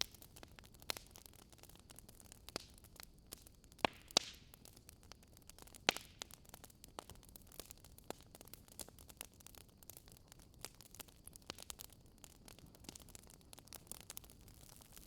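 Wood fire crackling: irregular sharp pops and snaps over a faint steady hiss, with a few louder pops about four and six seconds in.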